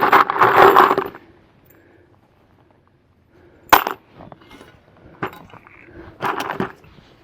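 A second-long scraping rush, then a sharp clink about three and a half seconds in, a few lighter knocks, and another short scraping rush near the end.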